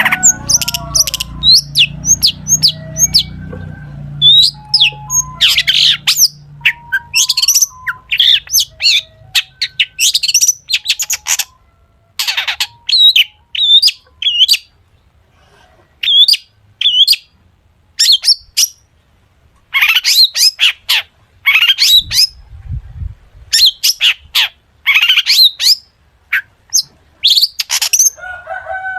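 Long-tailed shrike (cendet) singing a fast, varied string of short chirps, quick whistles and harsh notes in bursts, its song filled with mimicked calls of other birds. A low hum lies under the first few seconds.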